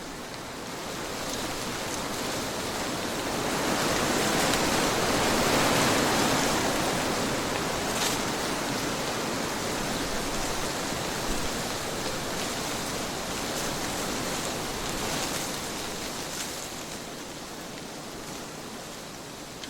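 Trade winds blowing in a field recording: steady rushing wind that swells into a stronger gust a few seconds in and then slowly eases off, with a faint click about eight seconds in.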